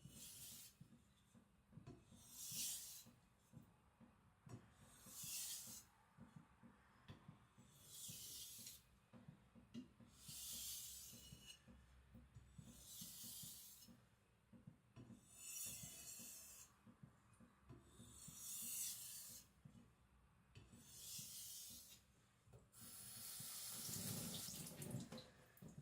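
Faint, even strokes of a steel knife edge across a wet whetstone: a hissing swish about every two and a half seconds, about ten in all, with a longer one near the end.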